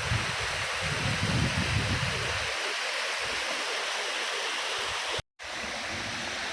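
Steady rushing of running water, with wind buffeting the microphone in the first couple of seconds. It cuts out abruptly for a moment about five seconds in, then carries on.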